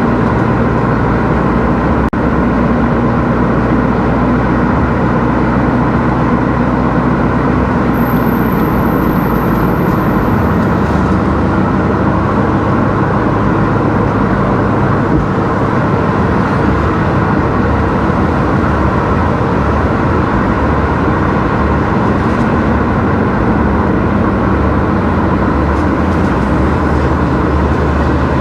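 Car driving along a road: steady engine and tyre noise at an even level throughout.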